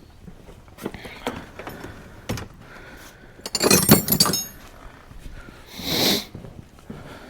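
Metal hand tools and parts clinking and knocking: a few light knocks, then a loud metallic clatter with ringing about three and a half seconds in, and a short scraping rustle near six seconds.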